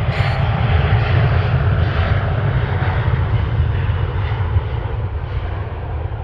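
Airliner passing close by, its engines a loud, deep rumble that slowly fades toward the end.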